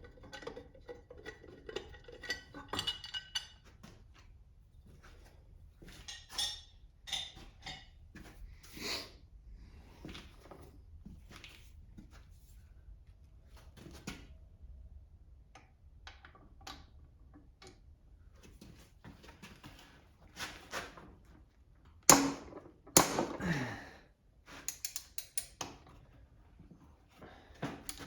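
Metal hand tools and engine parts being handled during an engine teardown: scattered clinks and taps, with a louder metallic clatter a little past two-thirds of the way through.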